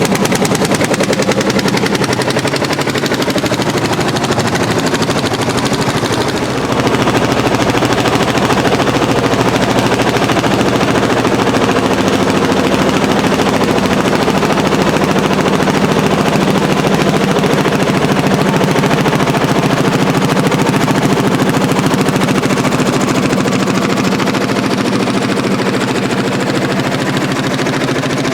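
Landini L55 tractor's single-cylinder hot-bulb diesel engine running hard under plowing load, its exhaust firing in a loud, rapid, steady beat.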